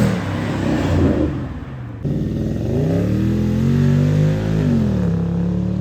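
Car engine revving through its exhaust: pitch climbs and falls back, then after an abrupt cut about two seconds in a longer rev rises, holds and drops back to idle near the end.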